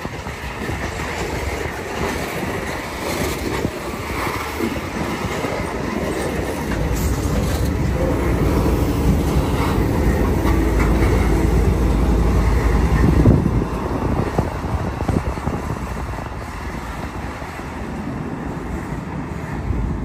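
Freight train of covered hopper cars rolling past, its steel wheels clattering on the rails. It grows louder toward about two-thirds of the way through, with a deep rumble, then eases off.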